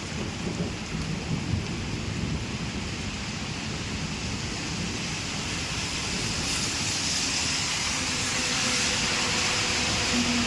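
Rain falling steadily, its hiss growing louder over the second half, with an uneven low rumble in the first couple of seconds.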